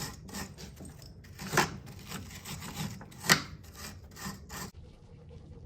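Repeated back-and-forth scrubbing strokes, about three a second with two louder ones, stopping shortly before the end: the torque converter drain nut being cleaned up.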